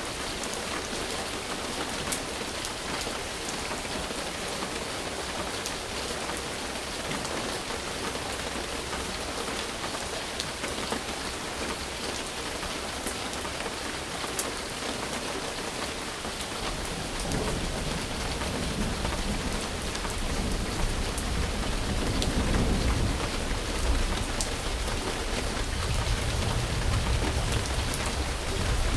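Steady rain falling, an even hiss with scattered sharp drop hits. A little past halfway, low rolling thunder comes in and rumbles on, growing louder toward the end.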